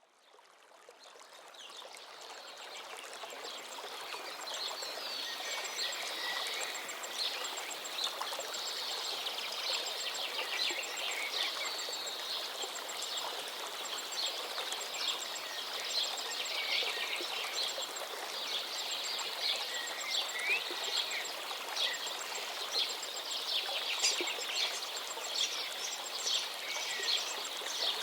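Many small birds singing and chirping over the steady rush of flowing river water, fading in over the first few seconds.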